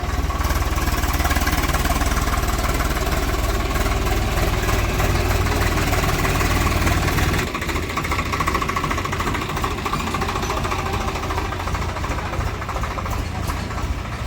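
Heavy diesel engine of farm or earthmoving machinery running with a steady, fast knocking clatter. It eases a little about seven and a half seconds in.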